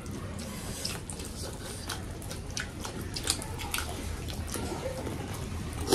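People chewing and biting food eaten by hand, with many short clicks and smacks of the mouth.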